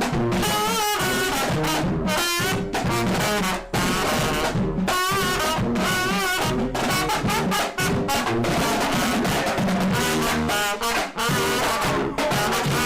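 A brass band playing: horns carry a wavering melody over drums.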